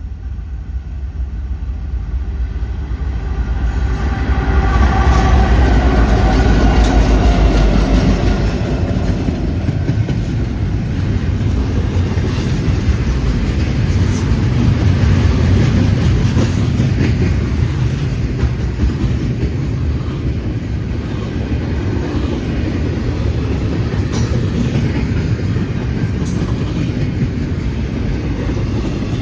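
Norfolk Southern diesel freight train passing at speed. The low rumble of the lead locomotives is loudest with a falling pitch several seconds in, then the freight cars roll by with wheels clacking over the rail joints.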